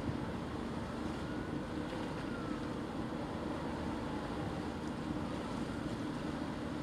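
Distant passenger train running along the line: a steady low rumble with a faint steady hum.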